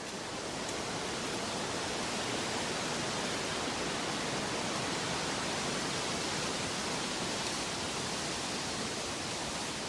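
Steady, even rushing noise of water, fading up over the first second and then holding level.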